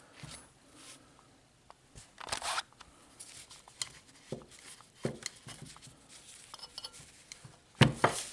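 Small parts being handled on a workbench: scattered light clicks and brief rustles, with a louder knock-and-rustle just before the end.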